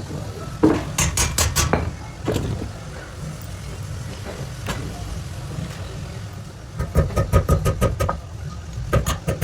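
Hammer blows on a steel sickle blade: single knocks and short runs of quick strokes, the fastest run about four to five a second near the end, some with a faint ring. A steady low rumble lies under them.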